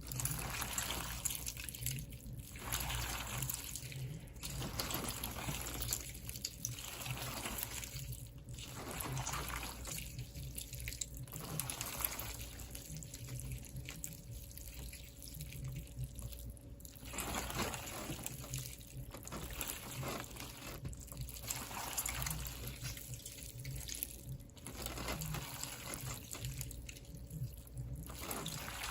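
Water running and splashing in uneven surges that come and go every second or two, over a low steady hum.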